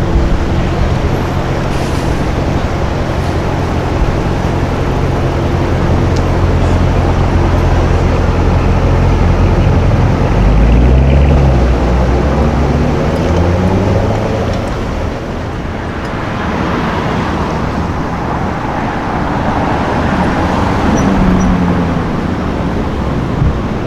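Car engine idling with a steady low note, then pulling away about ten seconds in, its pitch rising as it accelerates. A second engine climbs in pitch as it accelerates past in the second half, over steady street traffic.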